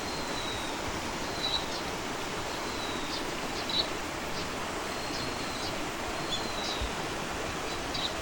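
A small bird repeating a thin, high whistle that falls slightly in pitch, several times, with short chirps between the whistles. Behind it is a steady outdoor rushing noise.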